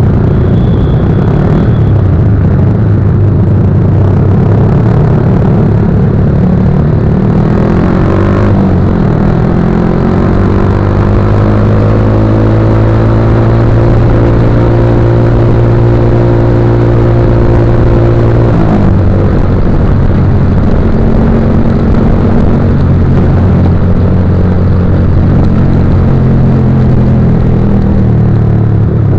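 Motorcycle engine running under way. Its pitch climbs slowly, holds steady, then drops abruptly about two-thirds of the way through, like a gear change or easing off, before steadying again, over a heavy low rumble.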